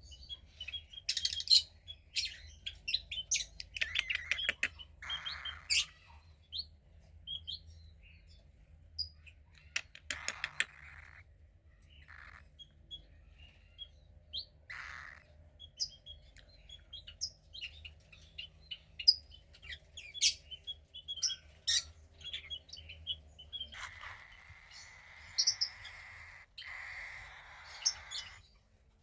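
Cockatiel chick chirping: many short high chirps, with a few longer, noisier calls, the longest near the end.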